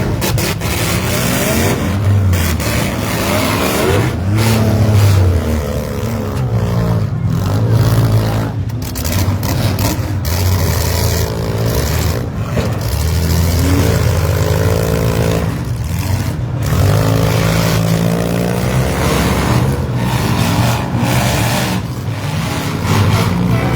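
Several derby vans, SUVs and mini trucks running at once, their engines revving up and down, with repeated crashes of vehicles colliding in a demolition derby heat.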